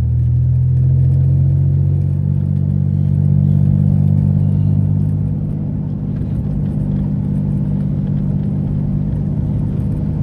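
Mitsubishi 3000GT's SOHC 3.0 L V6 running steadily, its exhaust throaty through gutted catalytic converters, with a slight swell in level about three seconds in.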